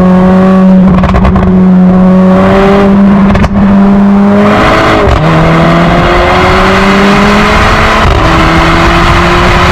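Mercedes-AMG GLA45's turbocharged four-cylinder engine with an aftermarket X Fi exhaust, running loud and rising in pitch under acceleration. The note dips sharply about five seconds in and again about eight seconds in, each time climbing again.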